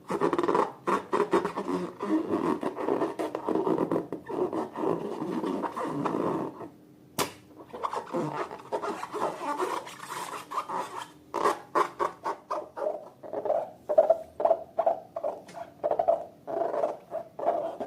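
Slime being worked by hand: continuous sticky rubbing and squishing, then after a short pause many short wet squelches and pops that come quickly and regularly near the end.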